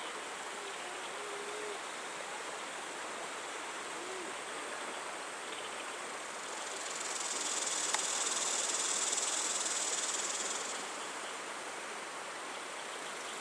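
Evening outdoor ambience of a steady insect chorus over the rush of flowing river water. A high, shrill insect buzz swells up about six seconds in and fades away a few seconds later.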